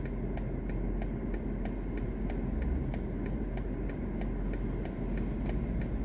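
Inside the cabin of a BMW i4 M50 electric car: a low steady rumble with an even ticking about three times a second, typical of the turn-signal indicator.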